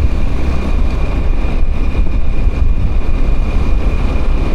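Motorbike running along at speed, with wind buffeting the microphone in a loud, uneven low rumble and a thin steady high tone over it.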